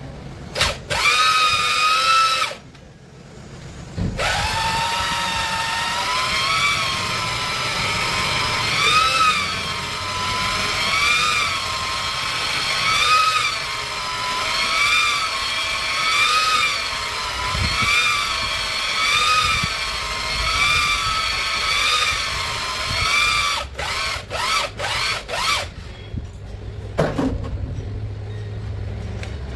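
Electric hand drill spinning a cylinder hone in a Cummins 6BT diesel engine bore. Its whine dips and recovers in pitch about every two seconds as the load changes. It starts briefly, stops, then runs for about twenty seconds and ends with several short trigger blips.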